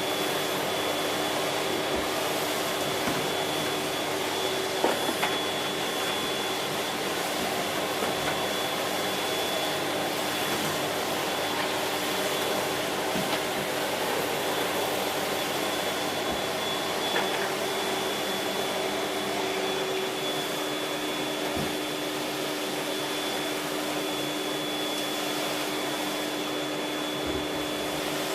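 Siemens Z6.0 Power 2500 W bagged cylinder vacuum cleaner running steadily while vacuuming, a constant rush of air with a steady hum and a thin high whine, with a few faint clicks.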